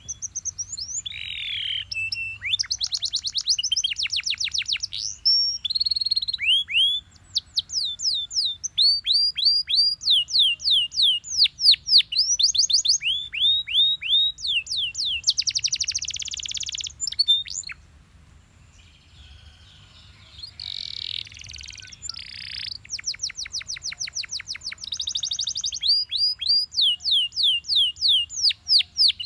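Belgian canary singing: phrases of fast trills made of rapidly repeated falling notes, changing from one trill to the next, with short breaks about a quarter of the way in and again a little past halfway.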